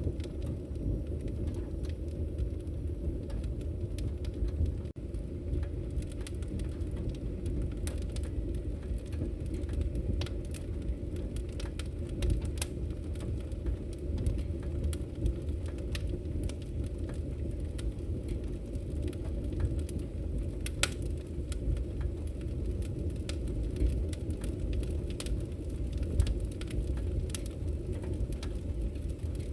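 Campfire burning: a steady low rumble of the fire with irregular sharp crackles and pops scattered throughout.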